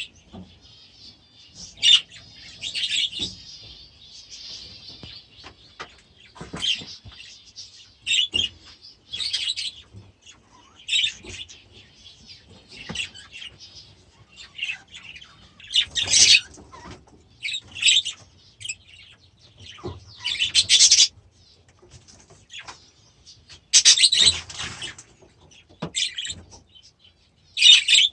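Budgies chirping and chattering: short, high calls every second or two, with a few faint knocks in between.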